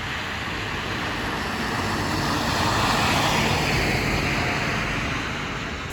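A vehicle's steady rushing noise that swells to a peak about three seconds in and then eases off.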